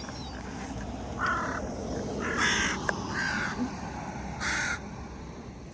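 A crow cawing four times, short harsh caws spread over a few seconds.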